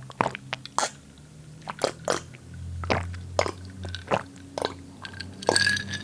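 Close-miked mouth sounds of sipping and swallowing a carbonated lemon-lime soda: irregular wet clicks and gulps.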